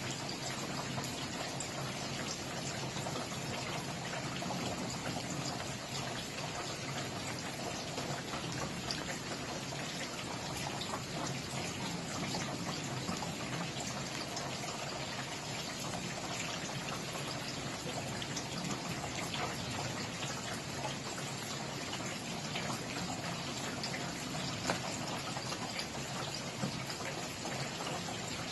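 Steady rain falling, a dense patter of drops with now and then a slightly louder single drop.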